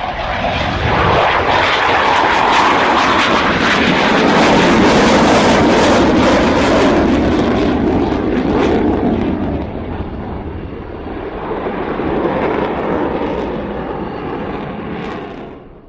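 Aircraft flying low overhead, a war sound effect: it swells up within the first second, stays loud with sharp crackling through the first half, then eases off and fades away near the end.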